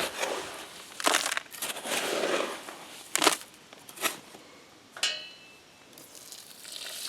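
Gritty scraping and crunching of concrete mix being worked by hand with a metal tool, with several sharp scrapes and a metallic clank about five seconds in that rings briefly.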